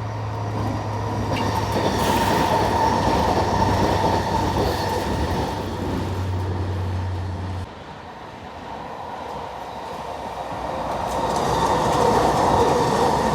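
SkyTrain passing on the elevated guideway: a rumble with a steady whine, swelling and then fading, with a low hum that cuts off suddenly about two-thirds of the way in, then swelling again near the end.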